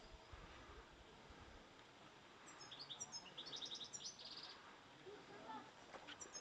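A songbird singing faintly: a phrase of quick high chirps ending in a fast trill, followed by a few lower whistled notes and the start of another phrase near the end. A low rumble sits under the first second and a half.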